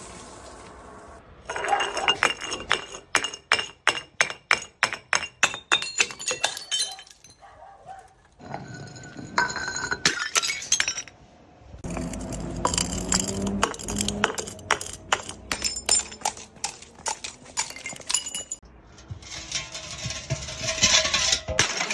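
Glass bottles smashing and being crushed: first a quick run of sharp knocks and clinks, about three a second, for several seconds, then longer stretches of shattering and crunching glass with ringing tones.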